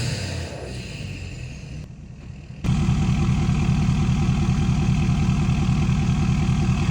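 Ford 6.7 L Power Stroke V8 diesel through a 5-inch straight-pipe exhaust, settling back down after a rev, then from about two and a half seconds in idling steadily and louder with an even, deep pulsing beat.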